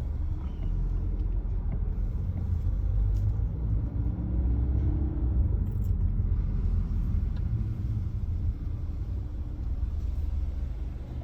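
Car heard from inside the cabin, its engine and tyres giving a steady low rumble as it drives slowly forward.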